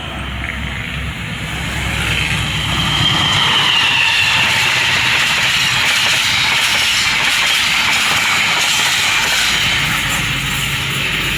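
A train passing close by at speed: a steady rush of wheel-on-rail noise that builds over the first two seconds and then holds.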